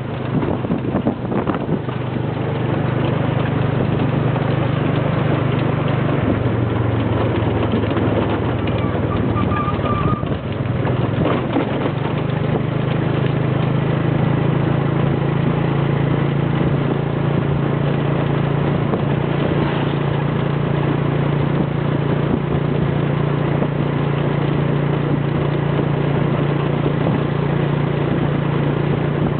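Motorcycle engine running steadily while riding, with wind and road rush; the engine note drops about six seconds in and climbs again about twelve seconds in.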